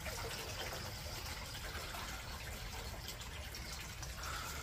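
Water running and trickling from a hand-pumped Step2 Pump & Splash plastic water-play toy as it fills. The sound is a faint, steady flow.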